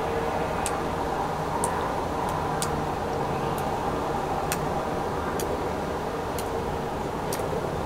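Steady low background hum, with short sharp high ticks about once a second.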